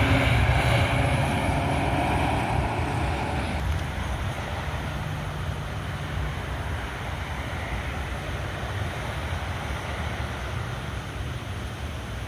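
A passing truck's engine rumble and tyre noise, loudest at the start and dropping away about three and a half seconds in, leaving a steadier, lower rumble of road traffic.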